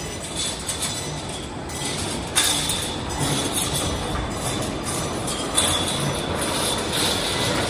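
Automatic reinforcement-cage welding machine for concrete pipes running with a steady mechanical noise. A sharp clank about two and a half seconds in, and another about five and a half seconds in, is each followed by roughly a second of louder high-pitched hiss.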